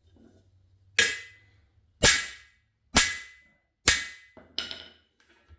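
Hammer blows on a cam bearing installer bar, driving a new cam bearing into the LS6 engine block's cam bore: four hard metallic strikes about a second apart, each with a short ring, then two lighter taps near the end as the bearing is eased toward its mark, where its oil hole lines up with the block's oil passage.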